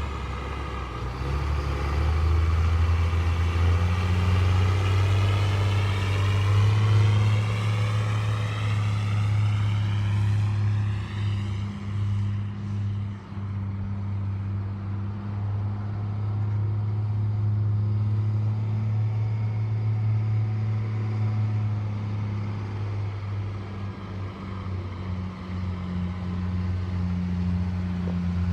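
Diesel engine of a 1997 Freightliner bulk fuel truck running steadily with a low hum, with a sweeping whoosh over it during the first dozen seconds.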